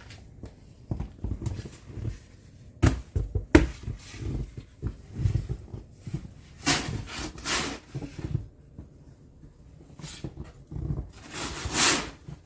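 Snow being cleared with a shovel: irregular knocks and thuds, then several short scrapes, the last near the end the loudest.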